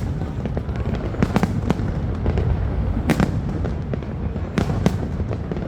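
Fireworks going off: irregular sharp bangs and cracks over a continuous low rumble of more distant bursts.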